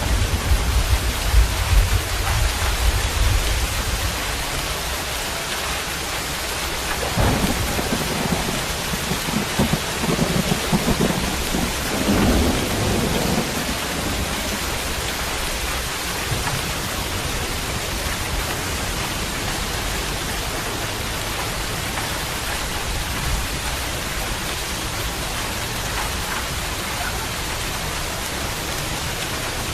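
Steady heavy rain, with low rolling thunder rumbling through the first few seconds and again for several seconds a little later.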